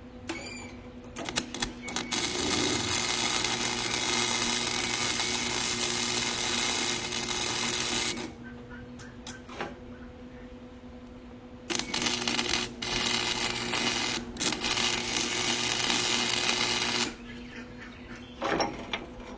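Electric arc welding on rebar: two continuous weld beads of crackling, sizzling arc, the first about seven seconds long and the second about five, with a few short clicks between them. A steady hum from the welder runs underneath.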